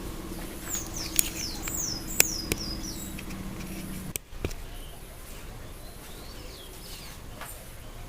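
A bird chirping in the background: a quick run of short, high, downward-sweeping chirps in the first three seconds, with a few sharp clicks and a steady low hum that cuts off suddenly about four seconds in.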